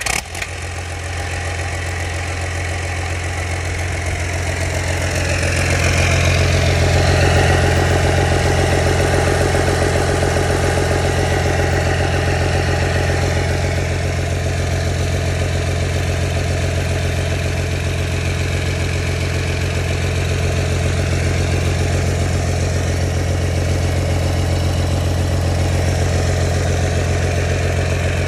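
Komatsu PC200-6 excavator's diesel engine running just after starting: it picks up over the first several seconds, then settles into a steady idle.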